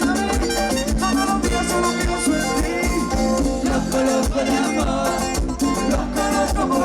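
A live Latin dance band playing an instrumental passage with a steady beat and no singing.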